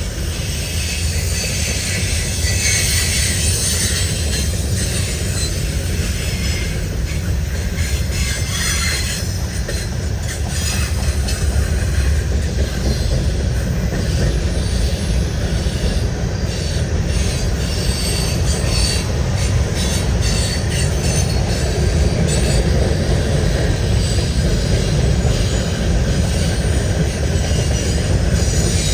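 Freight cars of a Canadian National freight train rolling past: a steady, loud low rumble of steel wheels on rail, with scattered sharp clicks and higher-pitched wheel noise.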